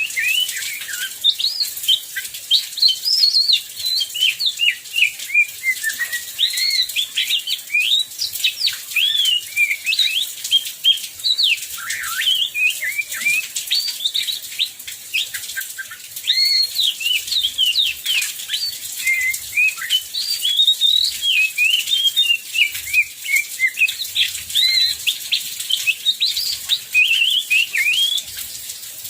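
Oriental magpie-robin (kacer) singing in full voice: a fast, unbroken stream of varied whistles, slurs and chattering phrases. A faint hiss of heavy rain lies behind the song.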